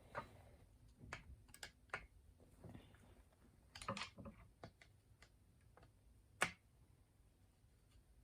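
Faint, scattered clicks and taps of a small screwdriver and feeler gauge working on a chainsaw's ignition breaker points as the point screws are tightened, with a small cluster of clicks about four seconds in and one sharper click about six seconds in.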